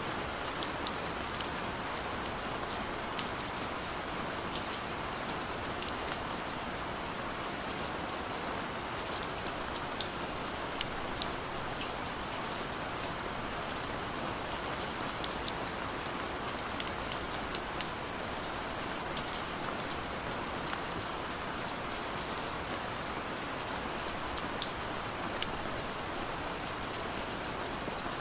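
Steady gentle rain: an even hiss of rainfall with many small, sharp drop ticks scattered through it.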